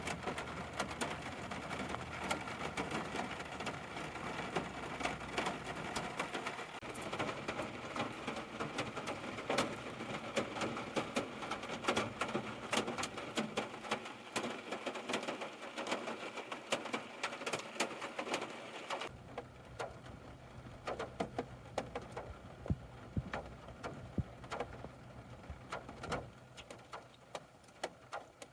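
Rain pattering with dense, irregular drops. About two-thirds of the way through, the patter thins and a low steady hum comes in under it.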